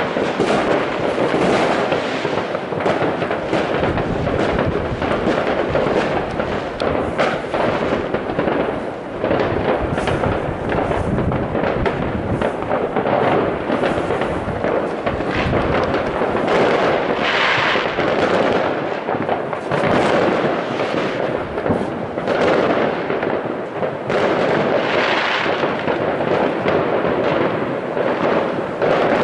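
Many fireworks and firecrackers going off at once in a continuous barrage, a dense unbroken crackle of bangs and pops.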